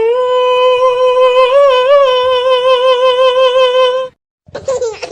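A voice holding one long, steady note with a slight wobble in the middle, cutting off abruptly after about four seconds. Near the end a new sound begins, a run of quick warbling rising and falling calls.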